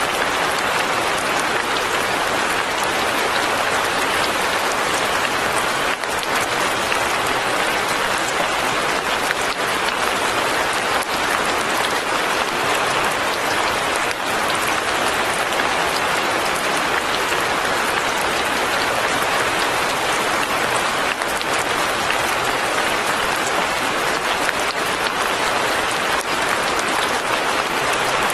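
Steady light rain falling on leaves and a cabin roof, a dense even patter with faint drop ticks.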